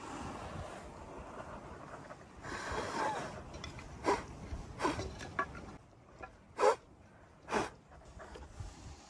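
Goats and sheep snorting at close range: a longer breathy rush about two and a half seconds in, then about five short, sharp snorts over the next few seconds.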